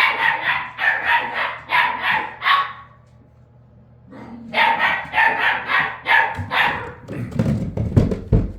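A dog barking in two quick runs of sharp barks, about three a second, with a pause of a second or so between them. Near the end come a few low thumps and knocks.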